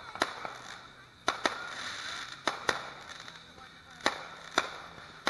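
Aerial fireworks shells bursting: about eight sharp bangs, several coming in close pairs.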